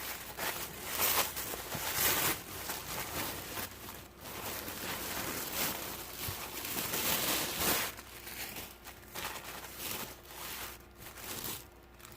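Wrapping paper on a gift package being crinkled and torn open by hand, in irregular rustling bursts that die down near the end.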